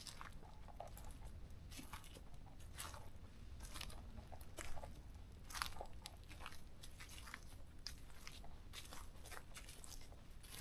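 Footsteps crunching on a forest trail: a string of short, uneven crackles as the walker treads over dry debris on the forest floor, with a faint low rumble underneath.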